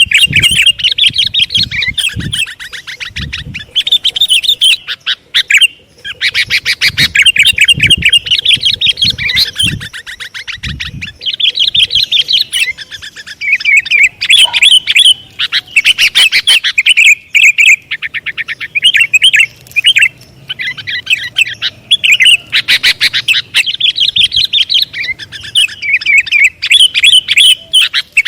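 Sooty-headed bulbul (kutilang) calling loudly in rapid chattering chirps, delivered in phrases a second or two long with short gaps between them, almost without pause.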